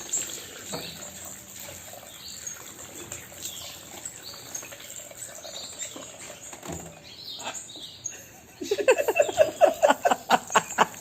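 Parrot chirping with scattered short, high calls, then breaking into a loud, rapid run of repeated calls, about six a second, near the end.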